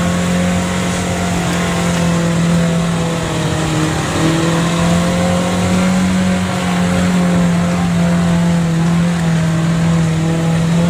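Off-road 4x4's engine running steadily as it pulls up a muddy track, heard from inside the cab, its pitch holding almost level with only slight dips.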